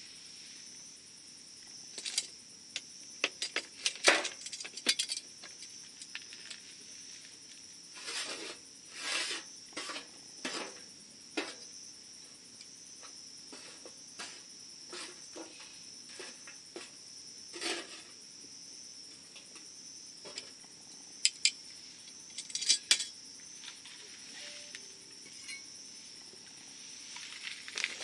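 Campfire burning low late in its burn, crackling with irregular sharp pops and snaps, some in quick clusters, over the steady high trill of crickets.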